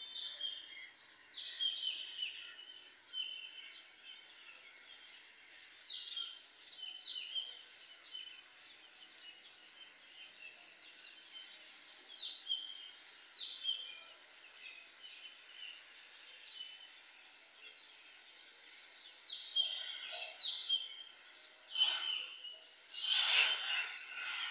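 A bird chirping in short phrases of quick falling notes, repeated every few seconds over a faint steady hiss. Near the end a louder noisy burst comes in.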